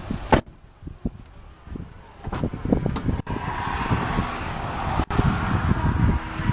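Wind buffeting the microphone: a gusty low rumble that dips early on, then comes back stronger. The sound breaks off abruptly twice.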